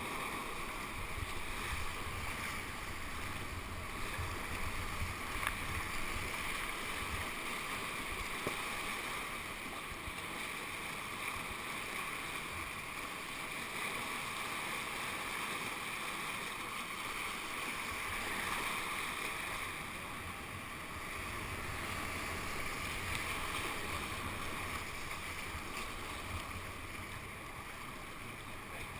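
Whitewater rushing steadily down a man-made concrete channel, with wind buffeting the microphone on and off.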